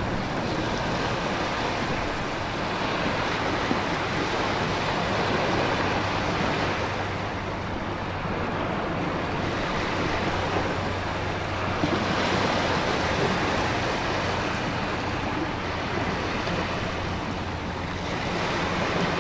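Storm ambience: a dense, steady rush of heavy rain and ocean surf. It eases about seven seconds in and swells again about twelve seconds in, like a wave breaking.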